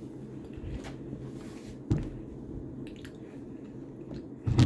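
Two dull thumps, about two and a half seconds apart, over a steady low hum.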